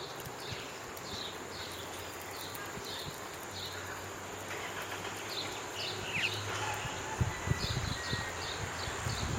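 Birds chirping, short calls repeating about twice a second over a faint low hum, with a few low thumps about seven seconds in.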